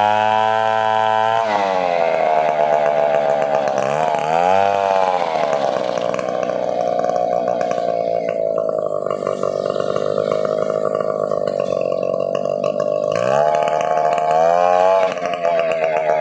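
Stihl 070 two-stroke chainsaw cutting through a young coconut trunk: the engine drops from a high rev about a second and a half in as the chain takes the load, dips and recovers a couple of times, and runs steady under load through the middle before rising again near the end.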